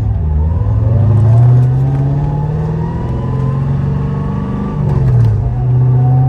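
Infiniti Q45's V8 engine pulling the car under acceleration, its pitch climbing for about four seconds, then dropping sharply at a gear change in the manual gearbox about five seconds in, before it pulls steadily again.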